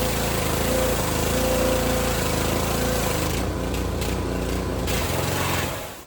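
Gas pressure washer running, its small engine steady under the hiss of the water jet spraying wooden deck boards. The spray hiss drops away for about a second and a half in the middle, and all of it cuts off suddenly near the end.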